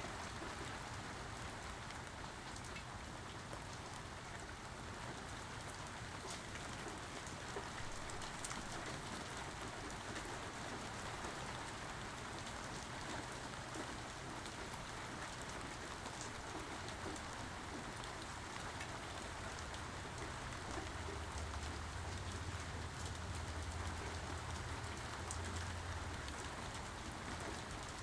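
Steady rain falling, with the patter of individual drops. A low rumble of distant thunder swells a little after two-thirds of the way in.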